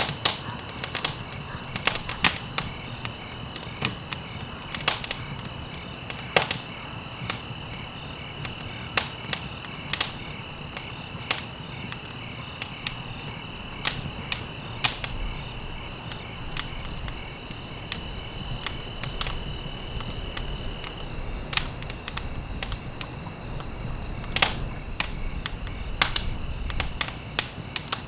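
Wood fire crackling in a fireplace, with irregular sharp pops and snaps over a low steady rumble. A steady high trill runs underneath; one of its tones drops out about two-thirds of the way through.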